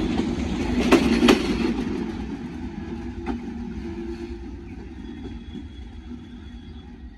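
Passenger train coaches rolling past on the rails, the wheels clacking sharply twice about a second in and once more a little after three seconds. The rumble then fades steadily as the train moves away.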